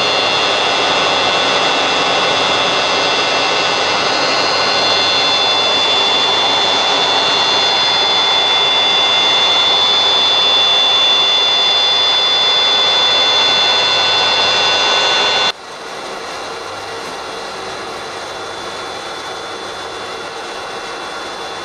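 Sea water extraction pump driven by a Torishima electric motor, running with a loud steady rush and a high whine of several tones. About fifteen seconds in it cuts to the same pump set running much quieter, the whine largely gone, once clad in a sound-damped steel cowl and base lining. The noise came from both pump and motor together.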